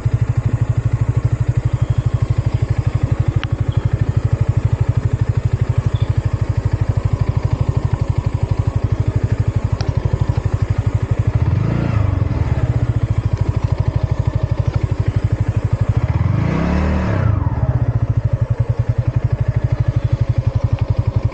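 Yamaha MT-15's single-cylinder engine and exhaust running under way, a steady fast pulsing note with wind noise over it. Twice, near the middle and about three-quarters through, the engine pitch swells up and falls back.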